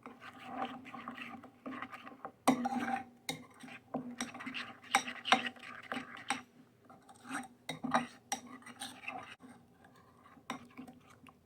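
A utensil clinking and scraping against a bowl in quick, irregular knocks as a liquid marinade of lime juice, seasoning and olive oil is stirred.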